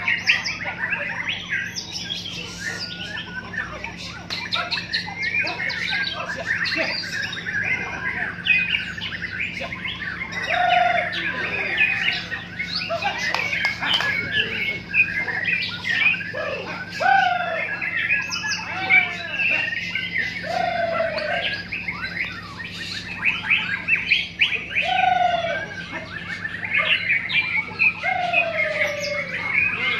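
Many white-rumped shamas singing at once: a dense, overlapping chorus of fast chirps, whistles and trills, joined from about ten seconds in by short lower falling notes every few seconds.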